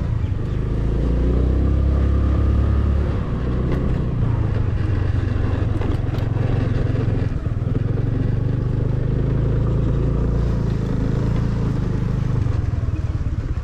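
Motorcycle engine running while riding, a steady low drone that drops in pitch about three seconds in and shifts again near the end.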